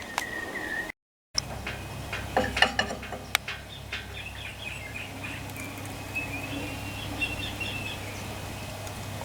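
Bird chirping in the background, with a few sharp clicks between about two and three and a half seconds in, over a low steady hum.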